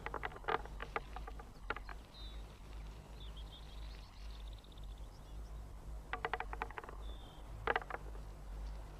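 Tits pecking and tugging at the pegs of a nut-dispensing machine: quick runs of sharp clicks and knocks near the start and again about six seconds in. Faint high bird calls come in between, over a steady low hum.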